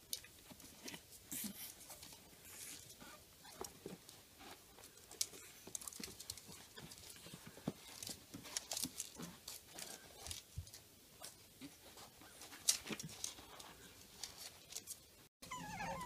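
A Shih Tzu puppy tussling with a soft slipper on a wooden floor: irregular light scuffs, taps and rustles from its paws and the slipper scraping. Right at the end, after a brief cut in the sound, a puppy's whine begins.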